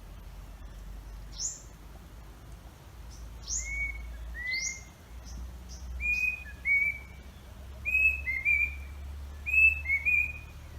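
A bird calling: high whistles that slide steeply down in pitch, and from about halfway on, short clipped whistled notes, often in pairs, growing louder toward the end.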